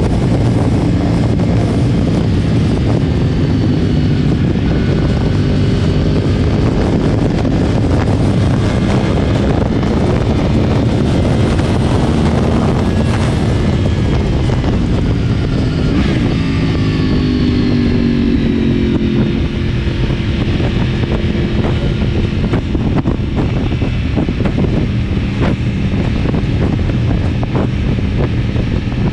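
2010 Yamaha R1's crossplane inline-four running on a decatted Akrapovic exhaust while being ridden. The engine note drops in pitch for a few seconds past the middle as the bike slows, then runs steady again. Light wind noise underneath.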